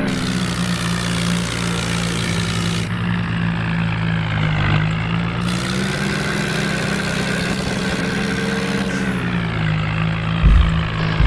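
Swaraj tractor's diesel engine running steadily under way, its note drifting slowly up and down. A couple of low thumps come near the end.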